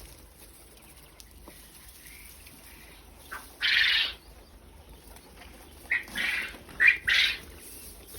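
Quail calling with short, rasping, unpitched calls: one about four seconds in, then a quick group of four around six to seven seconds in.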